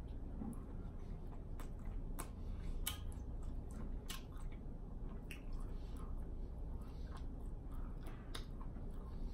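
Close-miked chewing of bite-size pieces of food, with wet mouth smacks and sharp irregular clicks.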